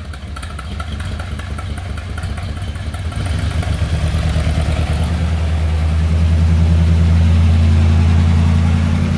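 1972 Corvette's 350 small-block V8 running at idle just after its first start since being flooded with salt water. The steady low engine note grows louder over the first several seconds, then holds even.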